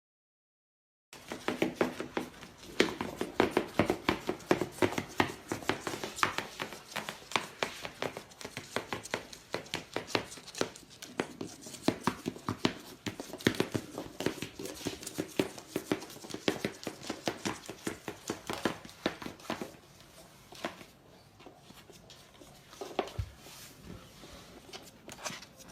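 Rapid crinkling and tearing, many sharp crackles close together, easing off about twenty seconds in.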